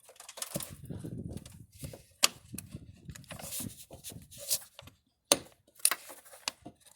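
Clicks and rattles of a car's plastic air filter housing being handled and its cover clips snapped shut, with sharp clicks about two seconds in and again twice near the end, and rustling in between.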